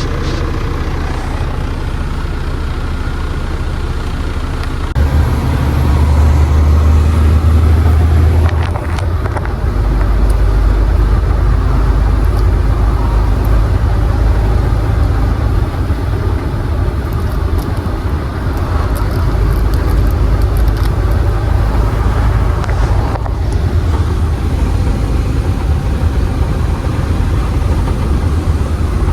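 Truck engine and road noise, a steady low rumble that gets louder about five seconds in and changes pitch again around nine seconds.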